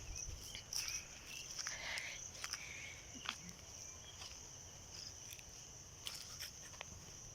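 Faint, steady, high-pitched insect chirring, with scattered soft clicks.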